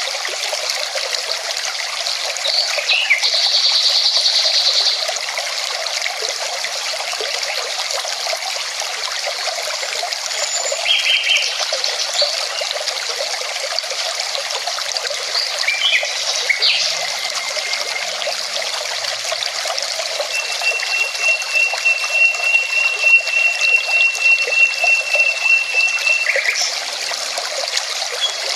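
Mountain river rushing steadily, with birds calling over it now and then: a fast high trill about four seconds in, a few short chirps, and a long thin high trill held for about six seconds in the second half.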